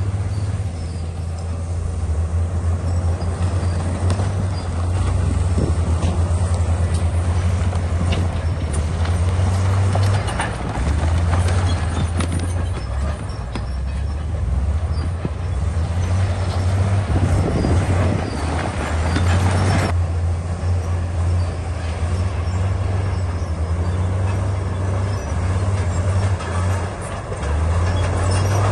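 Komatsu D68E crawler bulldozer's diesel engine working steadily under load, its low hum stepping up and down in pitch, with scattered knocks. A noisier, grinding stretch comes about two-thirds of the way through.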